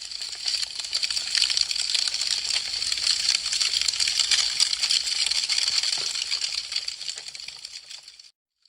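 Wood fire crackling: a dense stream of fast, sharp pops and snaps from burning branches. It fades away and cuts to silence shortly before the end.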